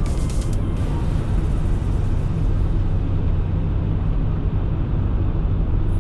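Steady low rumble of a car driving on a highway: tyre and engine noise at a constant speed.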